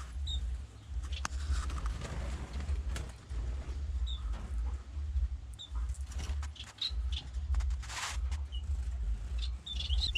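Small aviary finches giving short, high single chirps every second or two, with a few brief rustles, over a low, uneven rumble.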